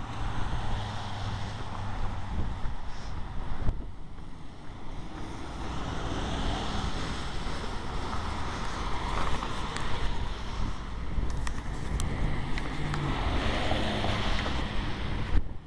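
Wind blowing across the microphone outdoors: a steady rushing noise with a heavy low rumble.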